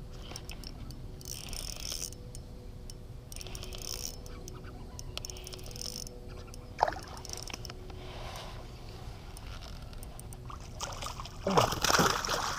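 Spinning reel cranked in short bursts while fishing from a kayak, then water splashing loudly near the end as a hooked fish comes up.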